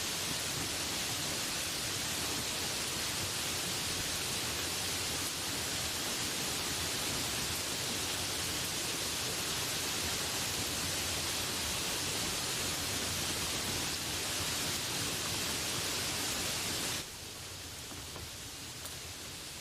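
Steady rain hiss, which drops suddenly to a quieter, duller level near the end.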